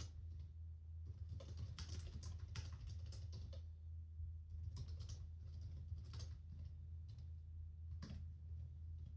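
Typing on a computer keyboard: irregular runs of soft key clicks with brief pauses between bursts, over a steady low hum.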